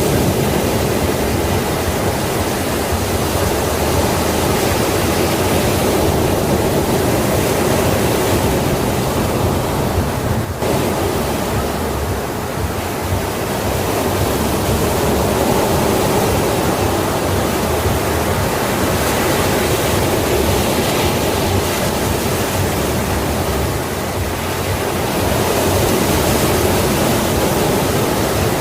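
Sea waves washing ashore in a continuous, dense rush of surf, easing off a little twice and swelling up again.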